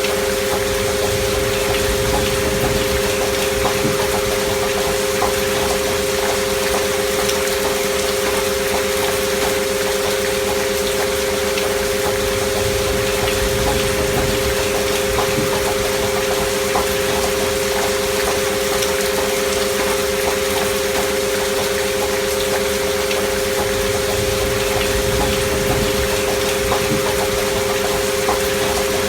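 Two steady sine tones close together in pitch, part of a binaural-beat frequency track, held unchanging over the even hiss of recorded gentle rain.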